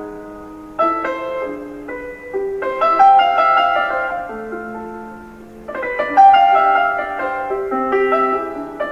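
Background piano music: notes and chords struck and left to fade, with new phrases starting about a second in, around three seconds in, and just before six seconds.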